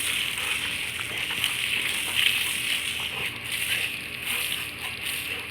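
Garden hose spray nozzle on its shower setting, spraying water in a steady hiss and splash, with a few faint clicks.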